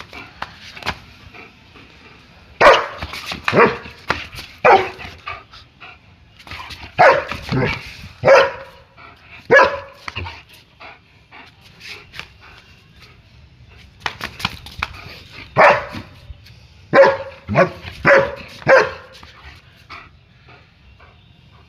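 German Shepherd barking during play, in three runs of four or five sharp barks separated by pauses of a few seconds.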